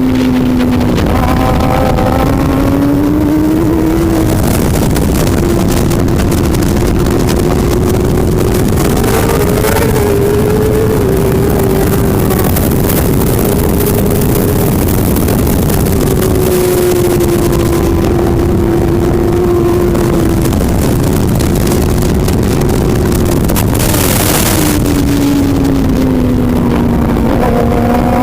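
Racing superbike engine running hard, its note climbing and dropping as it accelerates and shifts, and falling lower about a quarter of the way from the end before rising again, over a constant rush of wind and track noise.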